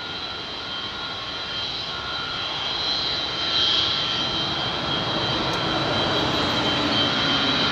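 Avro Vulcan's four Olympus turbojets passing, a steady jet rush with high held whistling tones, the Vulcan's howl, growing gradually louder.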